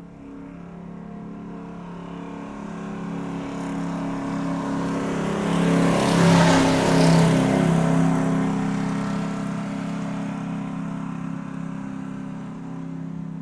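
Motor vehicle passing by: a steady engine hum grows louder, peaks with a rush of noise about halfway through, then fades away.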